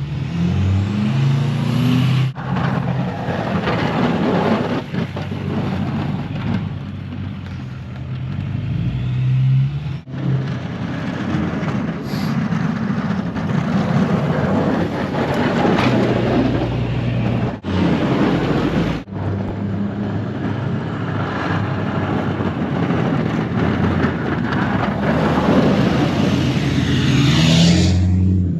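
Plow truck's engine running and revving with changing pitch, over a steady noisy rush. The sound is made of several clips cut together, breaking off sharply at each cut.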